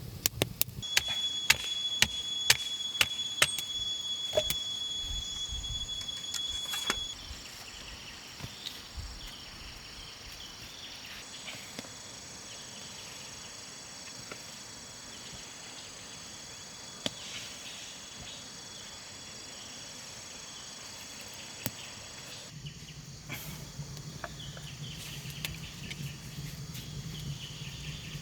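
Insects trilling steadily in high thin tones. For the first seven seconds a run of sharp clicks or snaps sounds over a louder high whine, and both stop suddenly.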